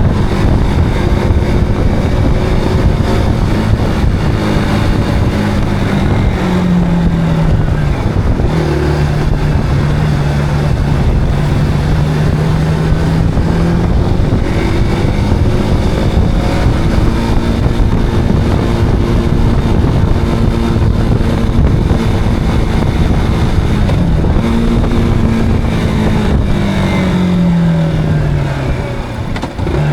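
Zontes cruiser motorcycle engine running under way. The engine note drops about a quarter of the way in and holds steady for several seconds, then falls again near the end as the bike slows.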